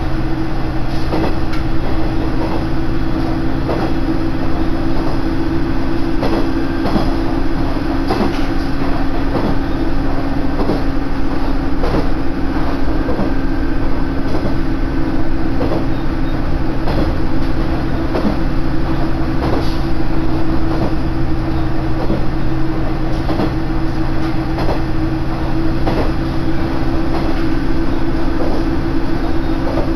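Inside a moving railcar on the Koumi Line: a steady low drone from the running gear, with the wheels clicking over rail joints about once a second.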